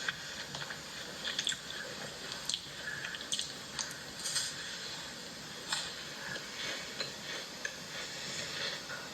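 Food sizzling in a hot pan, a steady hiss with frequent small crackles and pops.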